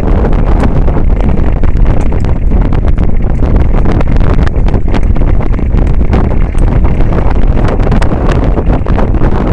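Wind buffeting the microphone on a moving boat: a loud, steady low rumble with scattered small crackles, without any clear engine note.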